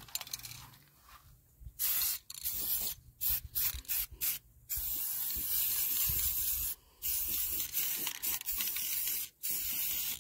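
Rust-Oleum gloss aerosol spray-paint can hissing in bursts. It starts about two seconds in with several short squirts, then settles into longer sprays of a second or two each.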